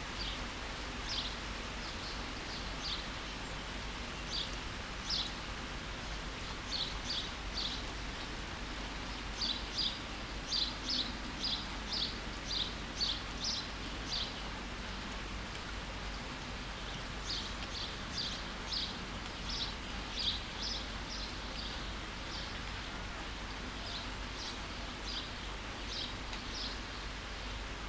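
Steady rain falling, with a bird giving short high chirps in runs of several quick notes, thickest about ten seconds in and again a few seconds later.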